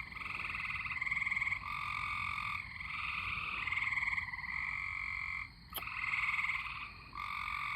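A chorus of tree frogs calling: overlapping trills, each about a second long, one caller taking over from the next with hardly a break. A brief click about two-thirds of the way through.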